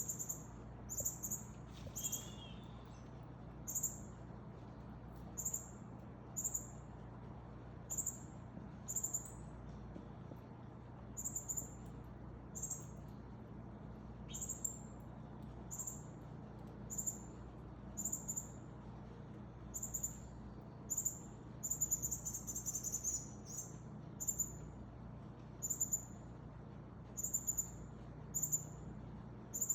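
Northern cardinal calling: short, high chips repeated about once a second, with a quick run of calls about two-thirds of the way through, over a faint steady low hum.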